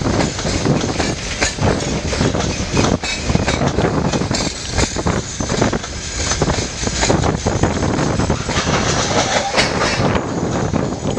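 Loaded coal wagons of a long freight train rolling past, a steady rumble of wheels on rail with a running clatter of knocks as the wheels pass over rail joints.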